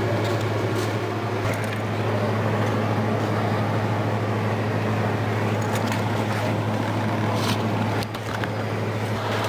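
Steady low machine hum at one unchanging pitch, with a few faint clicks and taps over it.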